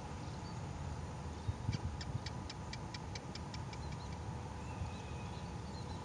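A bird giving a fast, even run of about a dozen ticking notes, roughly seven a second, starting a little under two seconds in, with a few short high chirps before and after. A low rumble of wind on the microphone runs underneath.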